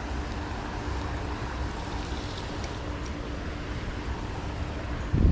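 Steady rush of river water with wind buffeting the microphone, and one short thump near the end.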